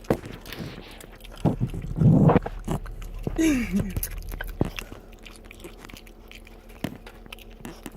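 Close-up crunching and chewing of nacho tortilla chips, with irregular crisp bites. A short falling voice-like sound comes about three and a half seconds in.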